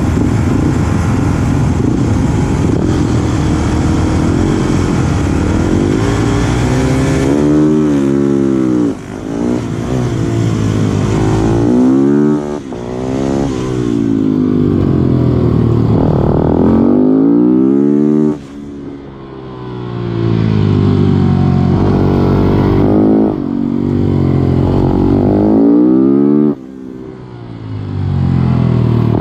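Supermoto race motorcycle's engine heard onboard at full throttle off the race start. It then climbs in pitch through the revs and cuts back sharply four times as the throttle closes for corners, each time pulling hard again.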